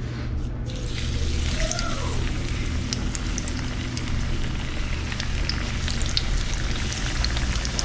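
Crappie frying in hot grease: a steady sizzle with scattered pops and crackles, setting in under a second in.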